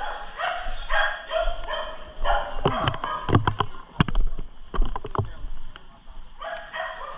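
A dog barking in a rapid run of short barks, then a few sharp knocks, with the barking starting again near the end.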